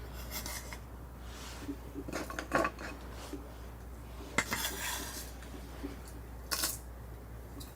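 Metal utensils clinking and scraping against cookware in a few short bouts, the clearest about two and a half, four and a half and six and a half seconds in.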